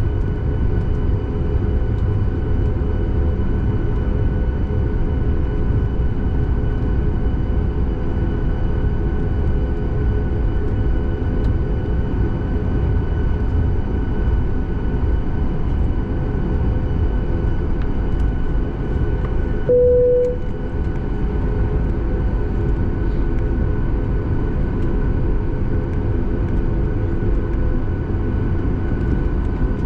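Steady cabin rumble of a Boeing 737 MAX 8's CFM LEAP-1B jet engines, with several steady whining tones. About two-thirds of the way through, a short single tone sounds for under a second.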